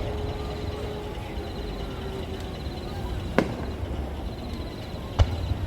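Fireworks display: two sharp bangs from bursting shells about two seconds apart, the second with a deeper thump, over steady background noise.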